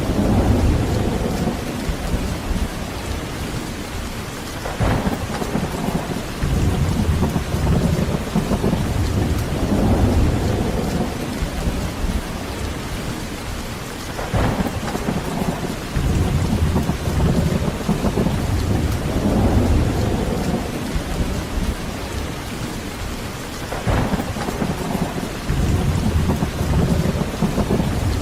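Heavy rain falling steadily, with rolling thunder rumbling low in repeated swells every few seconds. Three brief sharp cracks stand out, roughly nine to ten seconds apart.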